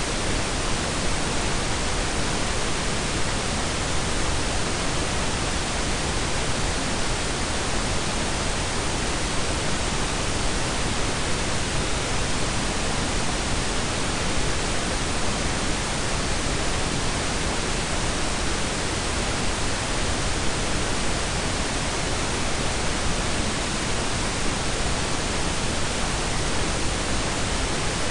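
Synthetic pink and brown noise blended: a steady, even hiss with a deep rumble underneath, unchanging throughout.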